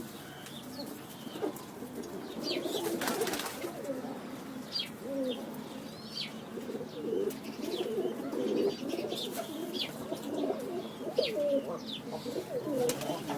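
Several domestic pigeons cooing at once, their low warbling calls overlapping continuously, with short high chirps from small birds scattered through.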